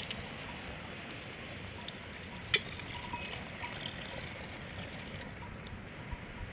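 Steady hiss of outdoor background noise with a single sharp knock about two and a half seconds in and a few faint clicks.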